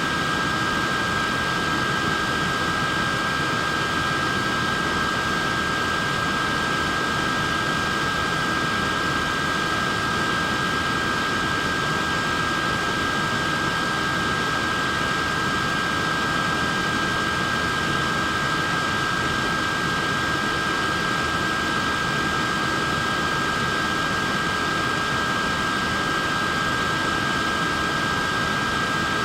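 Portable neck fan running steadily: an even rush of air with a constant high motor whine.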